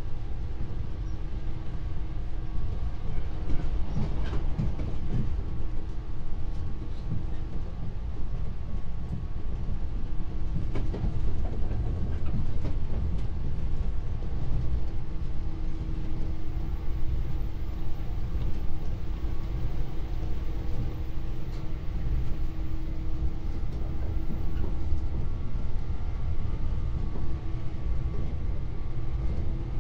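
JR 113 series electric multiple unit running at a steady pace, heard from on board: a steady low rumble of wheels and running gear with a constant hum. A few clacks over rail joints stand out.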